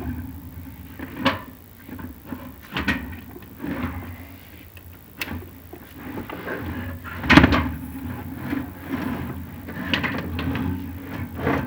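Chimney inspection camera scraping and knocking against the clay flue tiles as it is lowered down the flue: irregular knocks a second or two apart, the loudest about seven seconds in, over a low steady hum.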